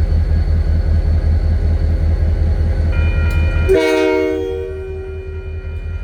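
Heavy, pulsing low rumble of a passing freight train. About three and a half seconds in, a diesel locomotive's multi-chime air horn sounds a loud chord blast, its lower notes dying away after about a second.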